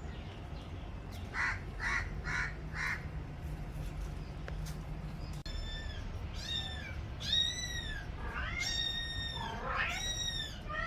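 Young kittens, about three weeks old, mewing repeatedly while begging for food. About a second in there is a quick run of four short calls, then from about halfway through come roughly five high-pitched, arched mews.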